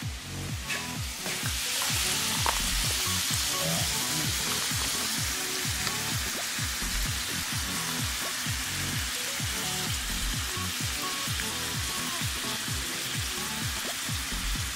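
Beef chunks sizzling in hot oil in a frying pan, the sizzle coming up strongly about a second in and holding steady as tomato sauce is poured in over the tomato paste. Background music plays underneath.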